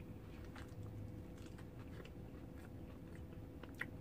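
A person chewing a mouthful of pan-fried potato slices: faint chewing with scattered small crunches, the sharpest near the end.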